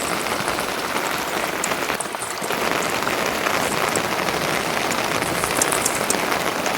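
Steady rain falling, with scattered sharp drop ticks over a dense, even patter.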